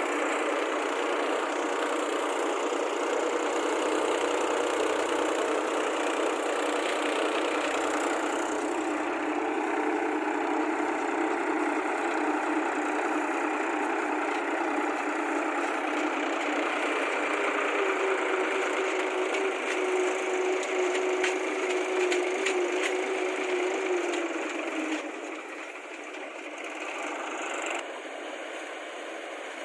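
Combine harvester running as it cuts paddy, a steady mechanical din with a humming tone that drops in pitch about halfway through. It grows quieter about 25 seconds in.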